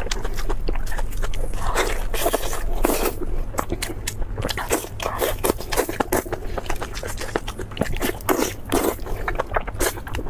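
Close-miked crunchy eating: a person biting and chewing crispy food, with a rapid, irregular run of crackling crunches.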